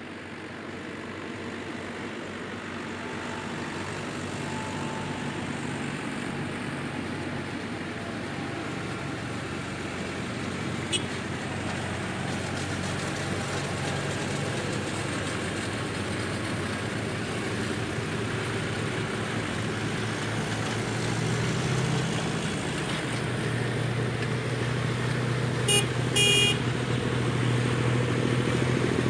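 Tractor engines running, the sound growing steadily louder, with a low engine drone strongest in the last few seconds. Near the end a vehicle horn gives a short double toot.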